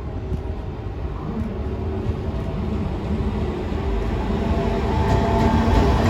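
JR Freight EF210 electric locomotive hauling a freight train, approaching and growing steadily louder: a low rumble with a steady hum of several tones rising over it.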